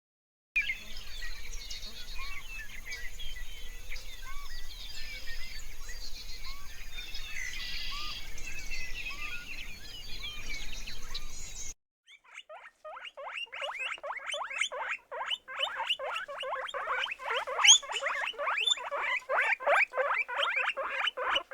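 Animal calls in two separate clips. First comes a busy din of small, high chirps over a low hum, cut off abruptly about twelve seconds in. Then a dense, rapid run of short chirping calls follows.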